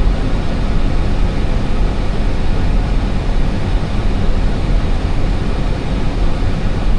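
Steady cockpit noise of an Airbus A320 on approach: the rush of air over the flight deck and the drone of the engines, loud and even, heaviest in the low end.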